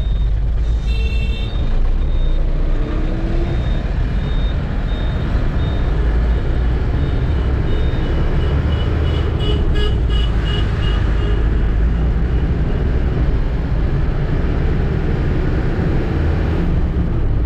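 Truck engine running with a steady low rumble while driving in city traffic, with horns tooting over it: a string of short high beeps early on and a quick burst of repeated toots about ten seconds in.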